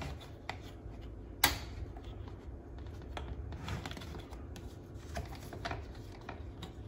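Light clicks and taps of hard plastic trap panels and a hinge plate being handled and slid into a slot, with one sharper click about a second and a half in.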